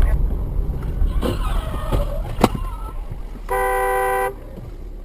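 A car horn sounds once, a steady blast of nearly a second, over the low rumble of a car. A single sharp click comes a little before it.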